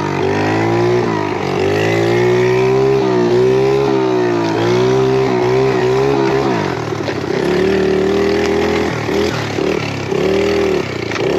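Small 50cc pit bike engine revving up and down as it is ridden, its pitch rising and falling again and again. About six and a half seconds in it drops to a lower pitch and then comes in shorter, uneven blips of throttle.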